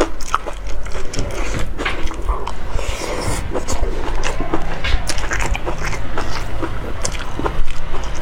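Close-miked eating: chewing and wet mouth smacking, with many short sharp clicks throughout.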